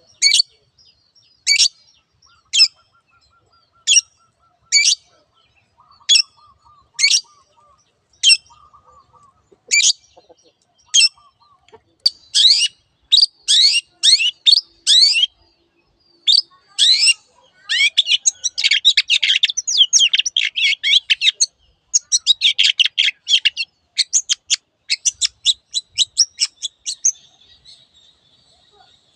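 Long-tailed shrike (cendet) calling: sharp, separate high notes about once a second at first, then from about twelve seconds in a fast, dense chattering run of notes.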